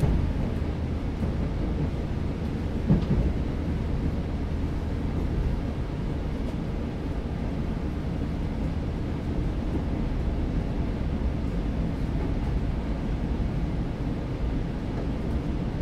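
Steady low rumble of a JR West 115-series electric train heard from inside the car, wheels running on the rails as it pulls into a station, with a single knock about three seconds in.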